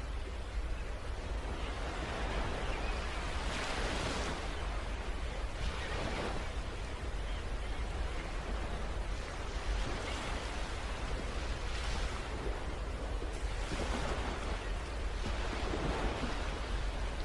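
Wind on the microphone: a steady rushing noise with a heavy low rumble, swelling and easing several times.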